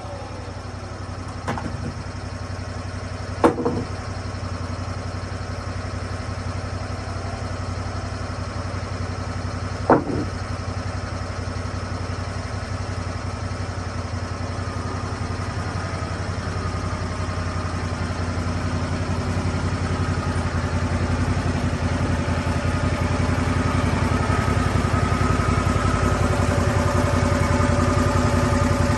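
Engine of a Lucas Mill swing blade sawmill running steadily and growing gradually louder, with a few sharp knocks, two in the first few seconds and one about ten seconds in.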